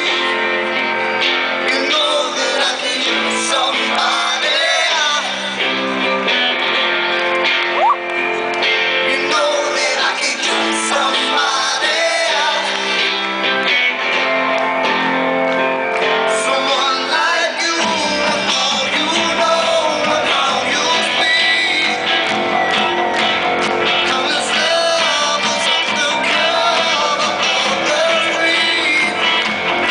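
Live rock band playing, with a voice singing over electric guitar. About eighteen seconds in, the bass and drums come in fuller and the sound turns denser and heavier.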